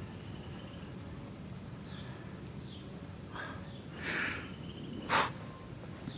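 Quiet woodland ambience: small birds give several short, high, downward chirps, and a few brief rustling noises come through, the loudest a little after five seconds.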